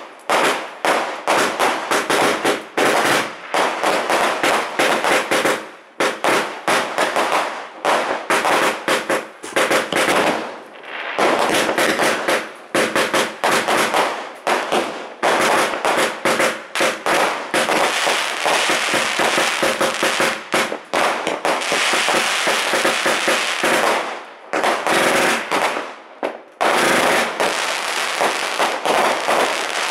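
144-shot consumer firework cake, the Morrisons Magnificent Finale, firing rapid strings of shots, with a stretch of near-continuous crackling in the middle and a few short pauses between volleys.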